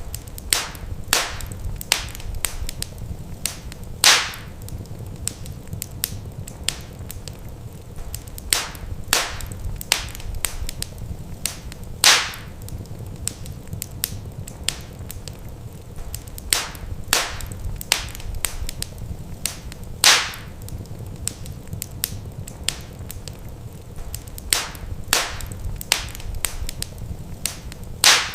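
Wood fire crackling in a fireplace: irregular sharp pops and snaps of burning logs, with a louder snap about every eight seconds, over a steady low rumble.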